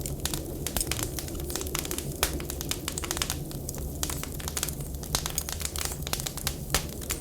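Wood fire crackling in a fireplace or stove: many irregular sharp pops and snaps over a low steady rumble.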